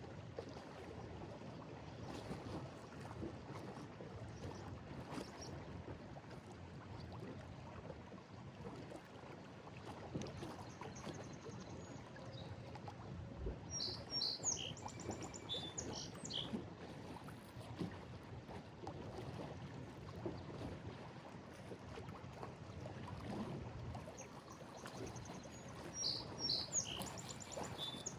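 Small Lake Erie waves lapping and sloshing against a breakwall, a steady wash of water with soft irregular swells. A small bird chirps in short bursts about halfway through and again near the end.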